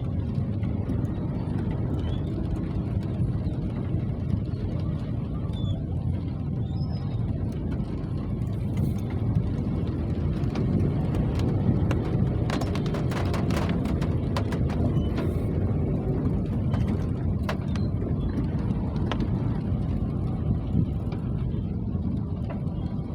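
Steady, even rain noise, deep and rumbling, with a run of sharp ticks and taps about halfway through.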